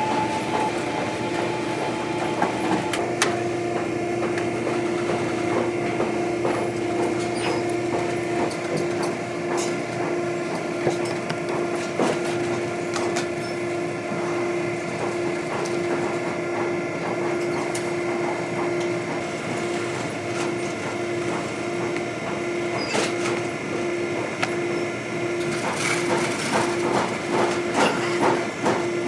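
A machine running steadily with a constant hum, with scattered clicks and knocks, and a run of rapid clicking near the end.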